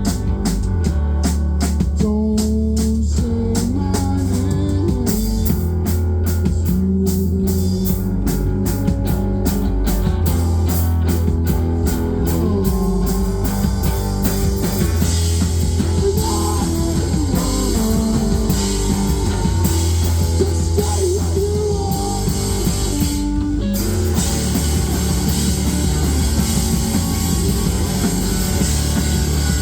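Live rock band playing an instrumental passage: electric guitar over bass and drum kit. About three-quarters through the band stops for a moment and comes back in fuller.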